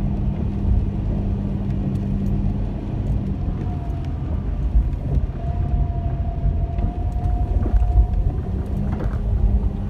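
Car driving slowly over a road littered with storm-fallen branches, heard from inside the cabin: a steady low rumble of tyres and engine with scattered small clicks and cracks from debris under the wheels.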